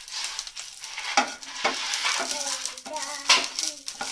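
Whole shallots and fresh curry leaves sizzling and crackling in hot coconut oil in a nonstick frying pan, with a wooden spatula stirring them. Two sharp louder pops, about a second in and just past three seconds.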